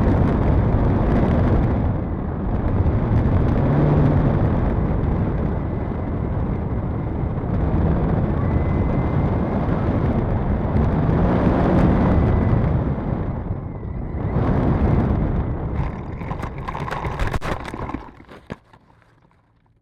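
Heavy rumbling wind noise on the microphone while a Carbon Cub S2 RC airplane flies, with a faint steady high whine through most of it. A few clicks come near the end, then the noise dies away.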